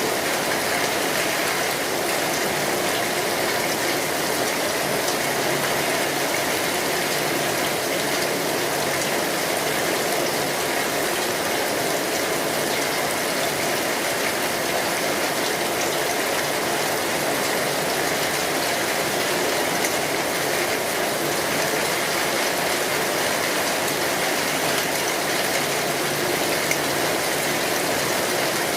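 Steady rain falling on a metal roof: a dense, even patter of drops that holds at the same level throughout.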